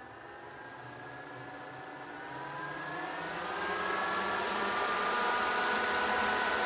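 Dog-cage ventilation fan rated at 900 m³/h speeding up: a whirring hum whose tones rise in pitch and grow louder over the first four seconds or so, then hold steady at full speed.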